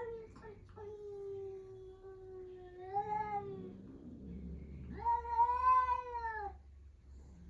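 Two long, drawn-out animal calls. The first starts about a second in and holds a steady pitch for over two seconds before rising at its end. The second, louder, rises and falls in an arch about five seconds in and lasts about a second and a half.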